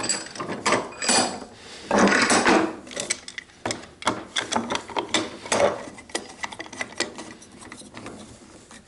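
Hand chisel paring waste off a wooden tenon: a run of short scrapes and sharp wooden clicks, thinning out and getting quieter near the end.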